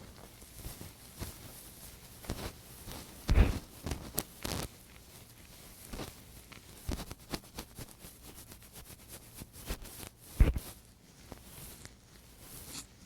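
Close-miked ear-cleaning ASMR sounds: a tool scraping and rubbing at the microphone's ear, with irregular crackling scratches and clicks. Two louder muffled thumps land about three and a half and ten and a half seconds in.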